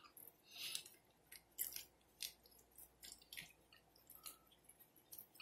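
Faint close-up mouth sounds of a person chewing food, with short wet smacks and clicks of the lips and tongue coming irregularly every half second or so.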